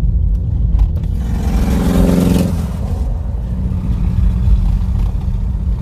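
Car driving on a rough dirt road: a steady low rumble of engine and tyres. From about a second in, a louder engine surge builds, then drops off suddenly about two and a half seconds in.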